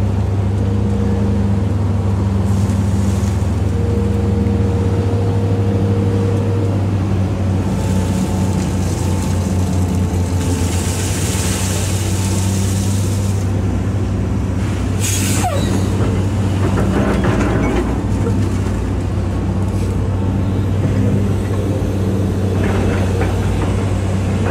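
Hitachi EX200-5 excavator's six-cylinder diesel engine running steadily while the machine digs. There is a brief hiss about ten seconds in and a sharp clack about fifteen seconds in.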